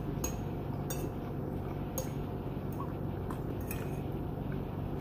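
About half a dozen light clinks and taps of cutlery and dishes during a meal, over a steady low background hum.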